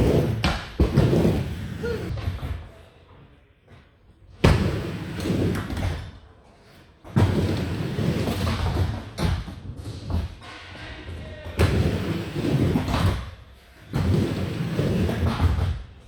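Skateboard wheels rolling and rumbling over ramp surfaces in several runs, each broken by sharp board slaps and thuds from tricks and landings.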